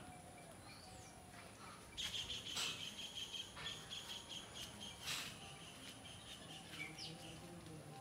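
Bird chirping outdoors: a fast run of high, rapidly repeated chirps starts about two seconds in and lasts about five seconds, over fainter background birdsong.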